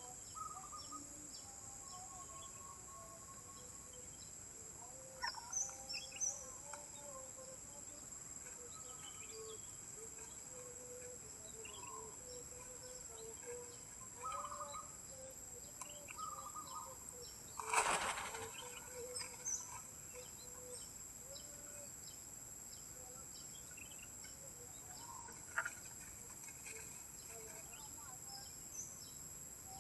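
Wild birds giving scattered short calls and chirps over a steady high-pitched drone, with one brief loud rush of noise about eighteen seconds in.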